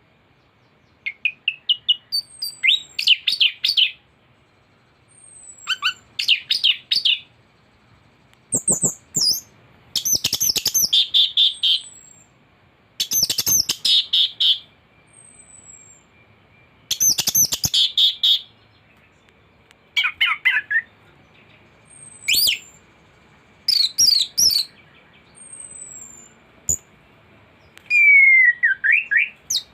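Anis (Indonesian ground thrush) singing in repeated bursts of rapid, varied chattering notes, each one to two seconds long with short pauses between, from a bird in full song with a mimicked repertoire. A faint steady high tone and short thin falling whistles sit between the phrases.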